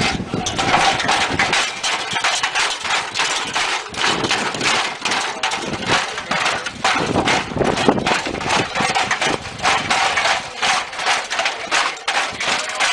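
A machine running with dense, irregular clattering and knocking.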